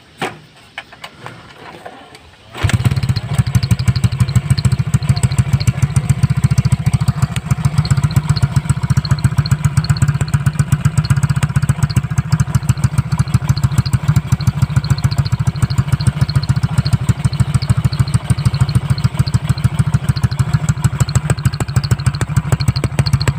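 Motorcycle with an aftermarket exhaust starting up after a couple of clicks, catching suddenly about two and a half seconds in, then idling with a deep, even pulsing exhaust note.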